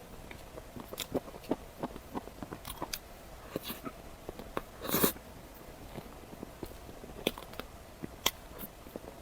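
Close-miked eating sounds: scattered small bites, crunches and chewing clicks, with one louder, longer crunching burst about halfway through.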